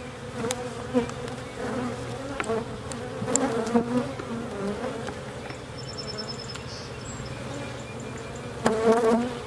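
Swarm of honey bees buzzing over an open hive: a steady drone whose pitch wavers as bees fly close past the microphone. A few light clicks and knocks come through as frames are worked loose and lifted out.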